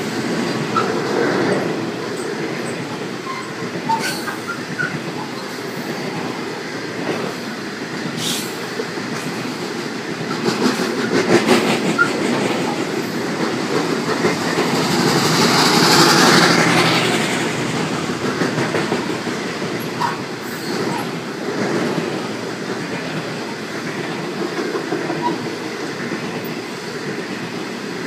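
A long freight train of hopper wagons rolling past close by, with a steady rumble of wheels on rail and a few sharp clacks. It swells louder for a few seconds around the middle.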